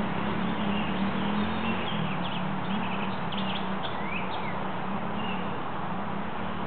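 A dirt bike engine running steadily at a low, even pitch, with small birds chirping in short high notes and a few quick sweeps about two to four seconds in.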